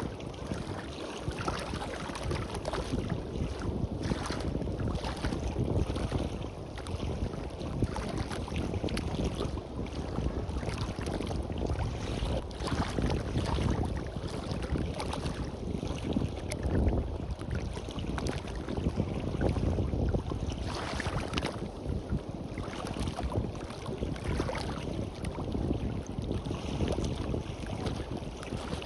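Sea surf washing on a beach, with wind buffeting the microphone in irregular gusts that give a heavy low rumble.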